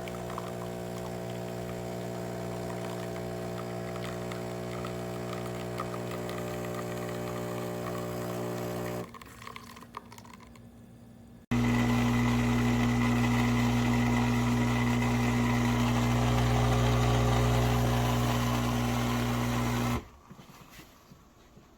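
Philips 3200 Series automatic espresso machine running with a steady electric pump hum. A short quieter stretch comes about nine seconds in, then a louder, deeper hum resumes and runs until shortly before the end.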